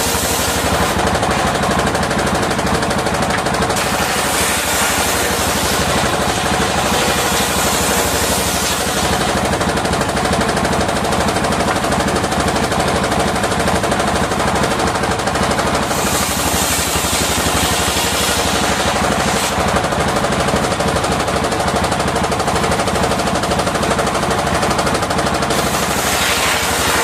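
Circular sawmill running continuously with a rapid, even pulsing beat. Its higher hiss grows and fades over stretches of a few seconds as it cuts sea hibiscus (waru) timber.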